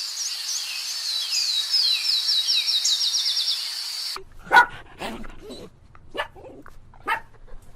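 High-pitched chirping calls in a quick run of falling notes, then, after a cut, a dog barking five times in short, sharp barks.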